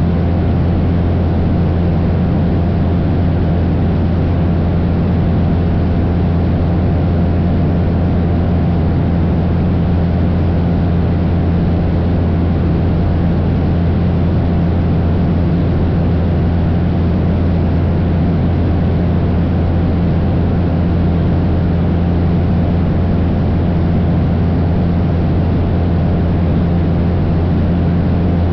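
Cessna 172's piston engine and propeller running at a steady cruise setting: a loud, unchanging low drone with a hiss of airflow over it.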